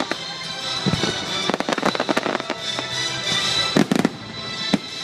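Aerial fireworks shells bursting and crackling in quick clusters, with a loud bang just before 4 s and another near the end, over music playing in the background.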